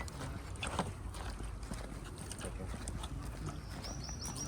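Footsteps on hard paving as the microphone is walked along, with voices in the background and a quick run of four short high chirps near the end.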